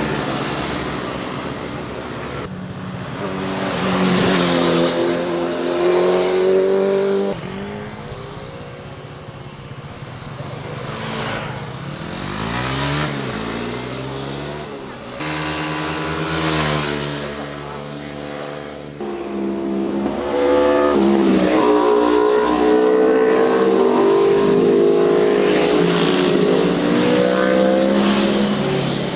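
Motorcycles passing one after another on a winding mountain road, their engines revving up and down through gear changes, with the pitch rising and falling as each goes by.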